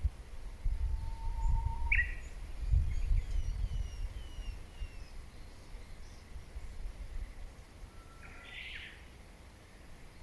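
Wild birds calling: a faint rising whistle, then a sharp call about two seconds in followed by a quick run of short falling notes, and another call near the end, over a low outdoor rumble.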